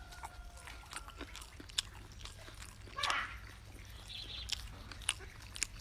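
A person eating: chewing, with scattered sharp clicks of chopsticks or a bowl, and one brief louder sound about three seconds in.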